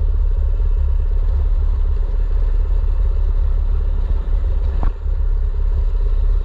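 Mini bike's small engine running steadily with a deep rumble, plus a single sharp knock about five seconds in.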